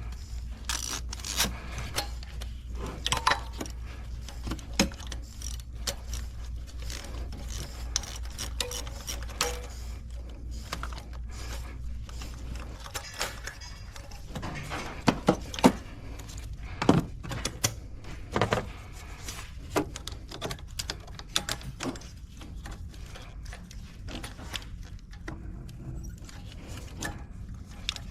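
Metal hand tools clicking and clinking in irregular knocks while a spark plug is being taken out of the engine. A low steady hum runs underneath and stops about halfway through.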